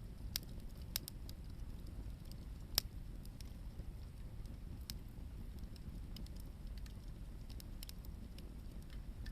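Hardwood firewood burning in an open campfire: scattered sharp crackles and pops over a low steady rumble, the loudest pop about three seconds in.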